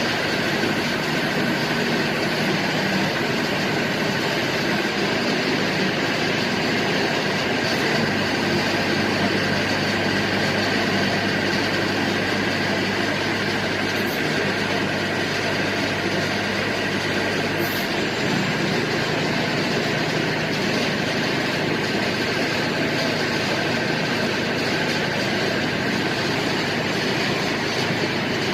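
Type 700 fully hydraulic drilling rig running steadily, its engine and hydraulic power head making a continuous mechanical noise. A low hum joins about eight seconds in and drops away about ten seconds later.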